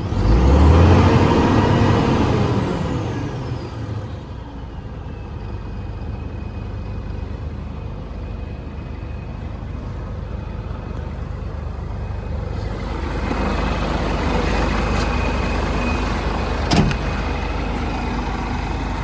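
Scania R124's straight-six diesel revved once at the start, its pitch rising then falling over a few seconds with a turbo whistle arcing up and back down, then settling to an idle. From about two-thirds of the way in it runs louder with a steady turbo whine, and there is one brief sharp click near the end.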